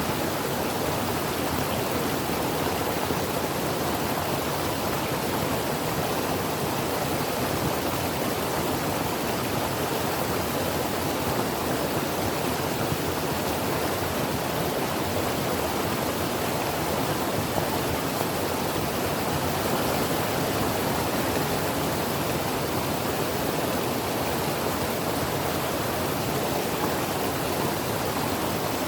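Creek water running and babbling over rocks, a steady, even rush.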